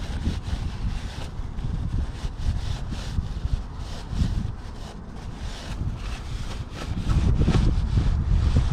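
Wind buffeting the microphone: an uneven low rumble that grows much stronger about seven seconds in, with scattered faint clicks.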